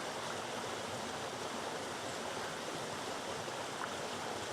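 A river running over boulders: a steady, even rush of water.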